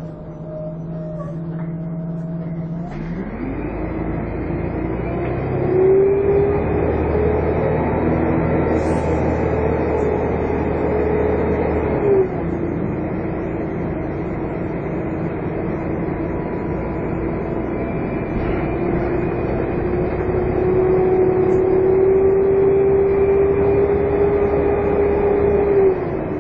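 Volvo Olympian double-decker bus pulling away and accelerating, with the high 'hoovering' whine climbing through each gear. The engine note falls at a gear change about twelve seconds in, climbs again, and changes gear once more near the end.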